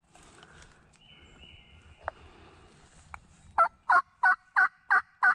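A run of six loud turkey yelps, about three a second, starting about three and a half seconds in.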